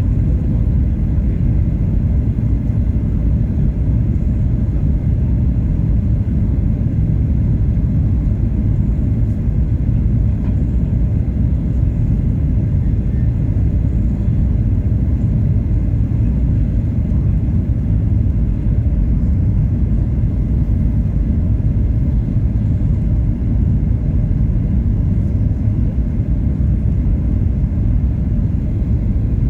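Steady low rumble of engine and cabin noise heard inside a Boeing 737-800's passenger cabin, unchanging throughout.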